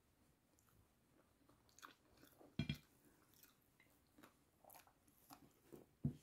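A person biting and chewing food with an open, wet mouth, with scattered crunches; the loudest crunch comes about two and a half seconds in, and another near the end.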